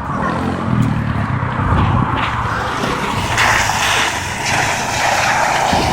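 Four-wheel-drive vehicle's engine running as it goes past, with a broad rushing noise joining about three and a half seconds in.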